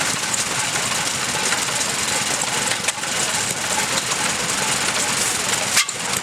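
Fairbanks-Morse 8 hp stationary gas engine running steadily.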